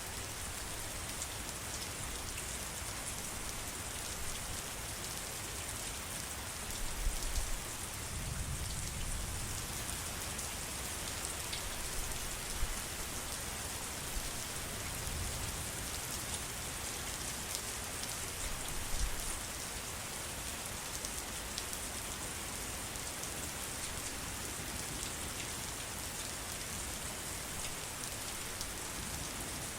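Steady heavy rain falling on surfaces, many drops ticking through a dense hiss, with a few brief low rumbles swelling and fading.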